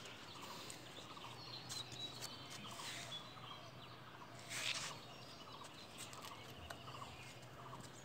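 Birds calling faintly, short scattered chirps over a quiet outdoor background, with a brief louder rustling burst about four and a half seconds in.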